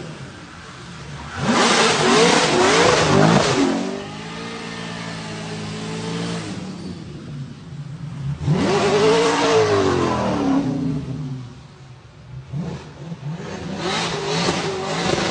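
BMW E39 M5 S62 V8, swapped into a Dodge Challenger, revving hard three times, its pitch sweeping up and back down each time, with steadier running between the surges.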